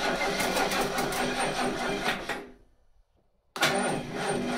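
Starter motor cranking the Continental's engine with help from a jumper pack, the run-down battery's voltage sagging to about 8 volts under the load. The cranking cuts off about two and a half seconds in and starts again about a second later.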